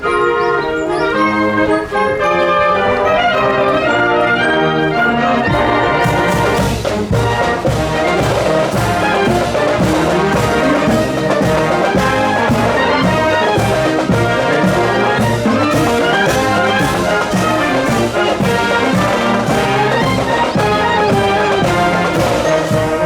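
Marching school wind band playing with trumpets and trombones to the fore. A steady percussion beat joins about six seconds in.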